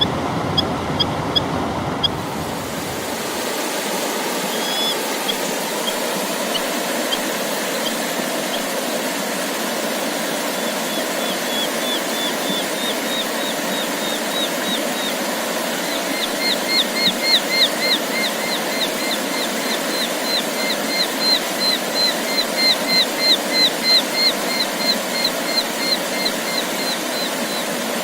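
A songbird singing rapid series of short, repeated down-slurred notes, scattered at first and then a long, loud run in the second half. Under it is a steady rushing noise.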